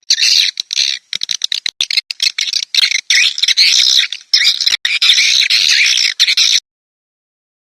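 Swiftlet call recording: a dense run of rapid, twittering chirps that cuts off abruptly about six and a half seconds in.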